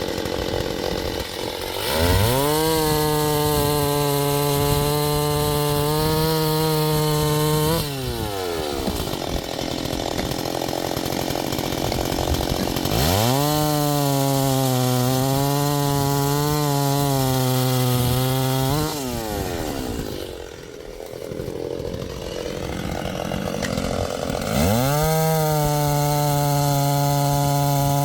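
Two-stroke chainsaw revved to full throttle three times, each time holding a high steady pitch for about six seconds while cutting, then dropping sharply back toward idle; the third run begins near the end.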